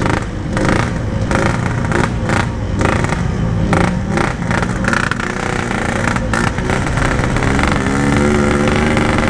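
Yamaha RX-King 135 cc two-stroke single-cylinder engine running under way, its pitch wavering and rising near the end. The bike is down on power, which the rider puts down to a carburettor that needs setting.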